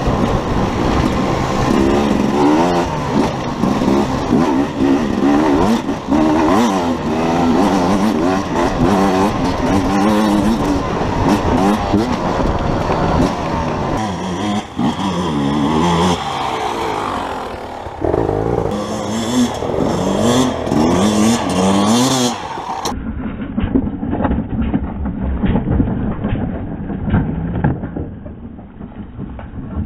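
Enduro motorcycle engines revving up and down over and over as they ride a rough trail, with wind noise on the microphone. About three-quarters of the way through the sound turns abruptly duller, with engines running steadier.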